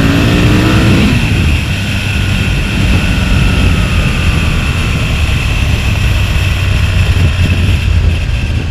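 Aprilia RSV V-twin motorcycle engine under way. The revs climb for about the first second, then drop away, and the engine runs on at lower revs. Heavy wind rush on the rider's microphone runs under it throughout.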